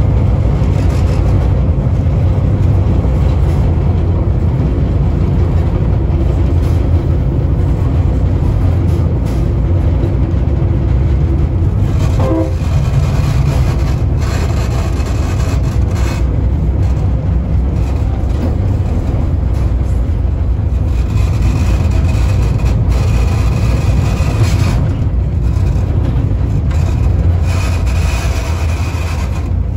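Commuter train running along the track, a steady low rumble of wheels and engine heard from the cab. A faint high tone joins in about twenty seconds in.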